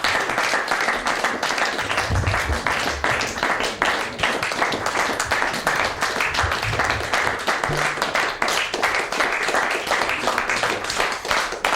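Theatre audience applauding, a dense, steady clapping that holds through the whole stretch.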